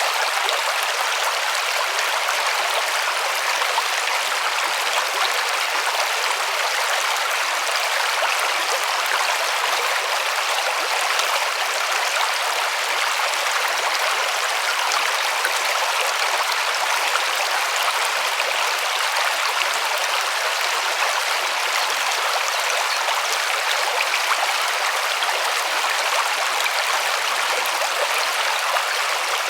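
River water rushing and splashing over stones, a steady, full rushing with no change.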